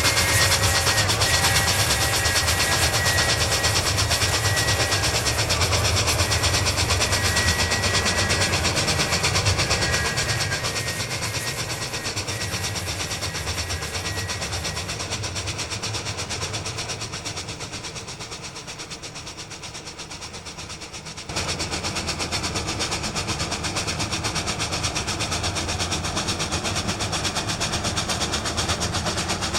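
Santa Fe 3759, a 4-8-4 Northern steam locomotive, working hard up a steep mountain grade: rapid exhaust beats, with a steady high tone over the first ten seconds or so. The sound fades away from about ten seconds in, then cuts back in loud about two-thirds of the way through.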